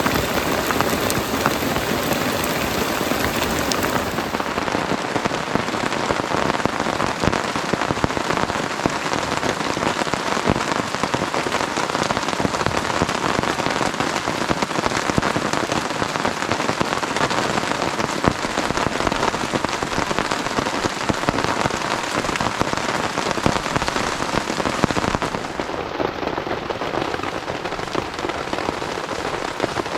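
Heavy rain falling steadily, a dense stream of drop impacts, easing a little near the end.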